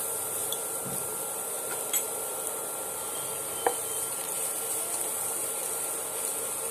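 Grated cabbage sizzling in oil in a nonstick pan as it is stirred with a wooden spatula, with a steady hiss and a couple of light knocks of the spatula against the pan.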